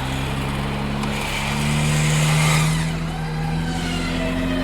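A vehicle engine under load rises in pitch and loudness to a peak about two and a half seconds in, then eases off, with a hissing whine that swells along with it.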